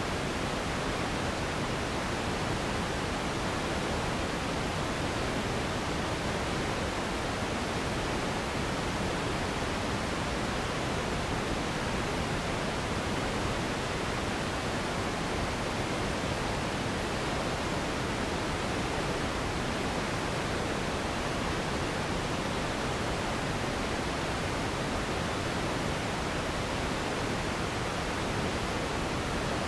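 Continuous sleep noise: a steady, even hiss that does not change.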